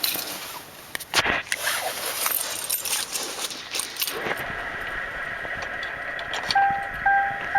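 Car keys jangling and clicking, then the 2003 Mercury Grand Marquis's warning chime starts beeping near the end, about two beeps a second.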